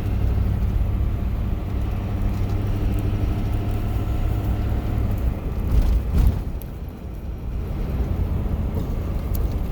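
Box truck's diesel engine running steadily while driving, heard from inside the cab. A couple of loud knocks come about six seconds in, and the engine note then drops and changes.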